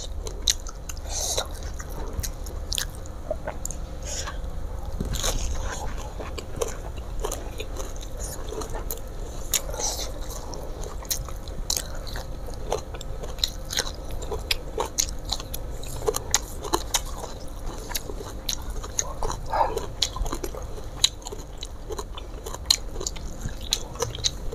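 Close-miked chewing of fried tilapia and rice, with many short mouth clicks.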